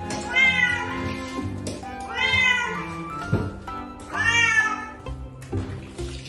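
Kitten meowing loudly three times, about two seconds apart, each call rising and falling: distressed crying while being shampooed for the first time.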